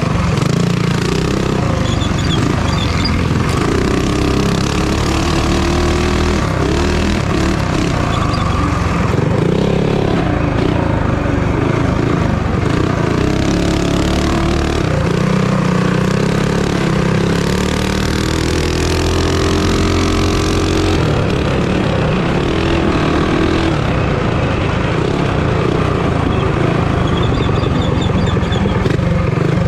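Minibike engines running hard in a race, revving up and easing off through the laps so the pitch keeps rising and falling.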